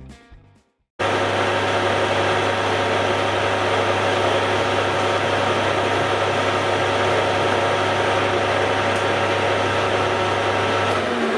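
Hare and Forbes AL335 metal lathe running steadily during a turning cut, a loud even mechanical hum of motor and gearing that cuts in about a second in; the low hum drops away near the end.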